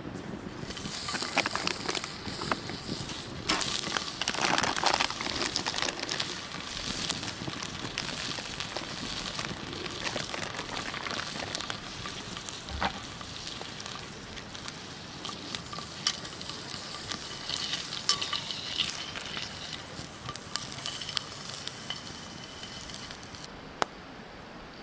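Food frying over a wood fire: a steady sizzle with scattered crackles and pops. It starts about a second in and cuts off suddenly near the end.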